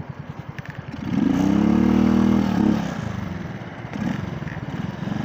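Motorcycle engine ticking over with an even putter, then revving up about a second in as the bike pulls away. It holds for a couple of seconds and eases off near three seconds, with a smaller rise shortly after.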